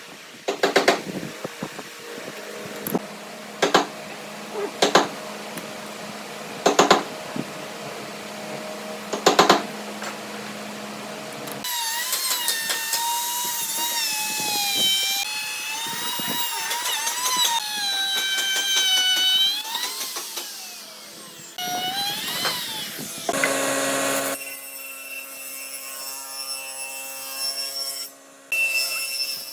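Several sharp knocks spaced a second or two apart, then a power tool whining with a wavering pitch for about nine seconds. After a short pause it gives way to a steadier motor hum.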